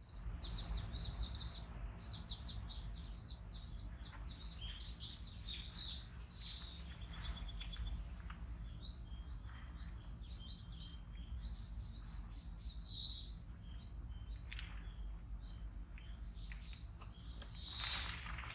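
Wild birds chirping and singing: many short, high chirps and trills, with one louder call near the end, over a steady low background rumble.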